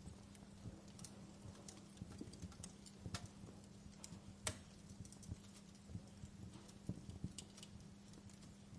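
Quiet wood fire crackling in a fireplace: irregular sharp pops and snaps over a low steady rumble. The sharpest pops come about three and four and a half seconds in.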